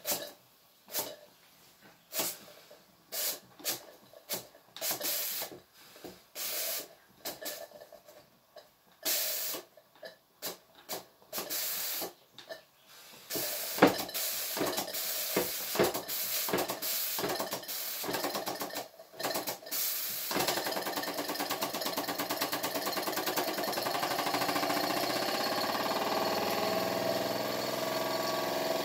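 Small model wobbler (oscillating-cylinder) steam engine getting going on steam: separate short puffs of hissing steam at first, coming closer together after about thirteen seconds, then from about twenty seconds in a fast, steady run of rapid exhaust beats with a continuous hiss.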